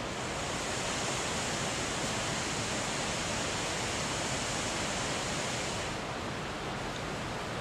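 Steady rushing of a large waterfall, the 65-metre Seljalandsfoss plunging over a cliff. Its high hiss softens a little about six seconds in.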